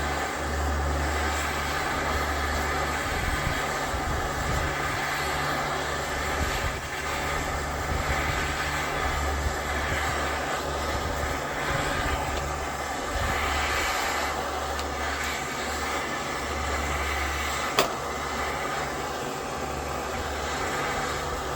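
A heating tool runs with a steady, even roar while it heats a seized part on the engine. There is a single sharp click about 18 seconds in.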